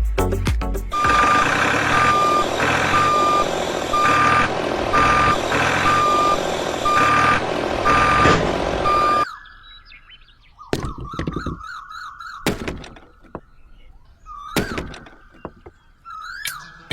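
Repeated electronic beeping, like a vehicle's reversing alarm, about once every 0.7 seconds over a dense, noisy background. It cuts off suddenly about nine seconds in, and quieter wavering tones follow.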